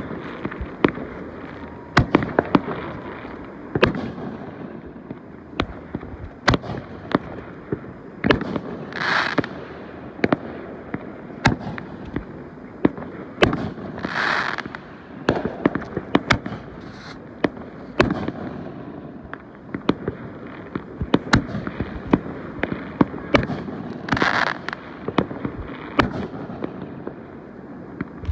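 Fireworks going off: an irregular run of sharp bangs and pops, a few each second, with three longer hissing swells in between.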